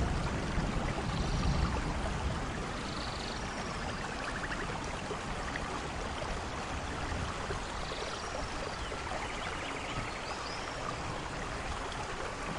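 Steady rain from a thunderstorm, with a low thunder rumble dying away in the first couple of seconds. Faint short high chirps come through the rain now and then.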